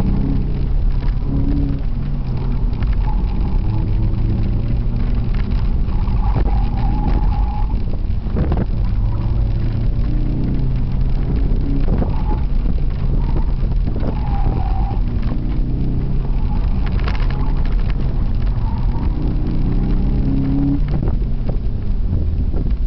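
Dodge Neon's four-cylinder engine heard from inside the cabin, revving up and down hard as the car accelerates and brakes through an autocross course, over steady road and wind noise. The tyres squeal briefly several times in the corners.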